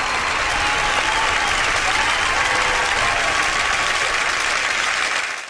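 Crowd applauding steadily, then fading out quickly at the end.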